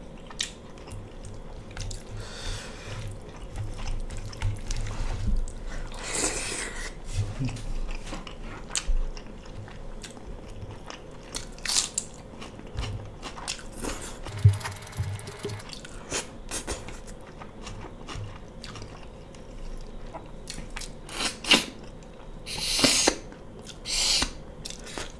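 Close-miked chewing and biting of mutton pieces eaten by hand, with wet mouth sounds and scattered clicks. A few louder, noisy bursts stand out, one about six seconds in and two more near the end.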